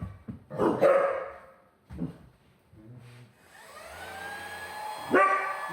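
Dog barking in loud, short outbursts. About halfway through, a vacuum cleaner's motor starts with a rising whine and settles into a steady run, and the dog barks again over it near the end.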